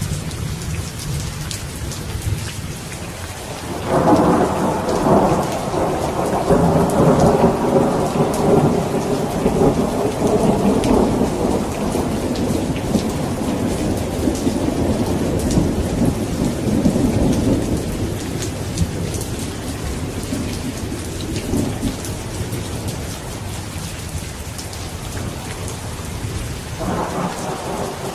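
Steady rain with a long roll of thunder that swells about four seconds in and rumbles away slowly over the next fifteen seconds; another thunder roll begins near the end.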